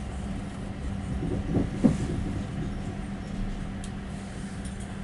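Interior of a diesel passenger train running into a station: a steady low rumble with a constant hum. A brief squeal comes about one and a half to two seconds in.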